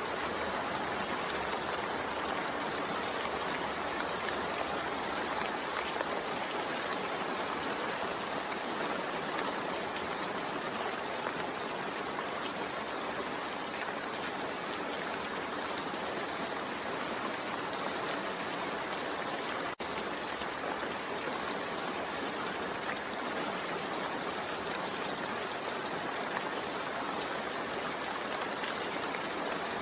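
Steady, even rainfall, a continuous hiss of rain with no thunder, with one momentary dropout about twenty seconds in.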